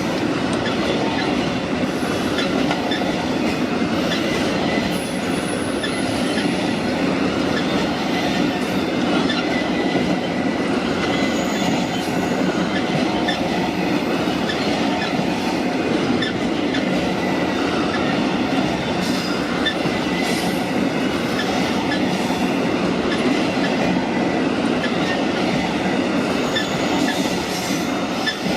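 A train rolling past on steel rails, with a steady, continuous noise from its wheels and cars, broken by a few brief high-pitched wheel squeals.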